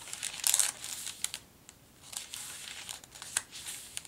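Paper and card rustling and crinkling in short, irregular bursts as the pages, postcards and tags of a handmade junk journal are handled, with a few sharp clicks.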